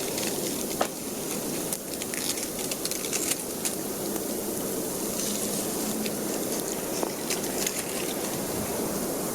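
Wood campfire crackling, with scattered sharp pops and snaps over a steady hiss.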